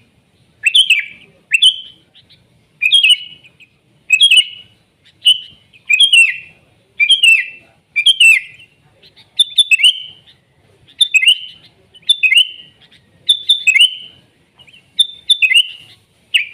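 Sooty-headed bulbul (kutilang) singing loudly: short, bubbly phrases of quick whistled notes, repeated about once a second.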